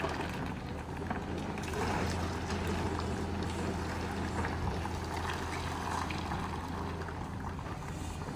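An excavator's diesel engine running steadily, a constant low hum, with scattered faint knocks over it.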